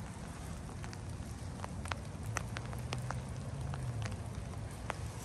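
Rain falling on garden leaves and dry plant litter: a steady patter with scattered sharp drops.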